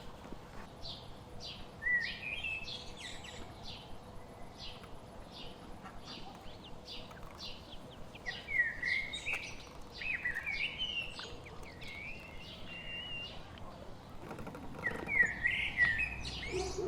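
Small birds chirping and singing: a steady run of short high chirps, with louder warbling song phrases about two seconds in, through the middle and near the end.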